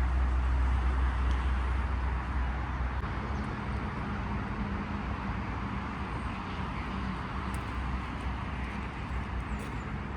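Street traffic noise: a passing vehicle's low engine rumble for the first three seconds, then a steady hiss of road noise.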